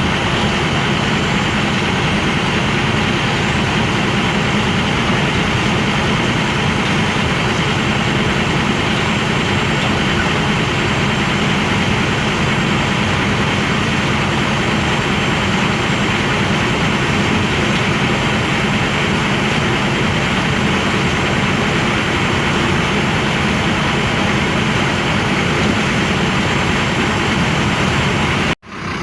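Scania bus running steadily, a continuous loud engine and road noise with no change in pitch. It cuts out suddenly near the end and comes straight back.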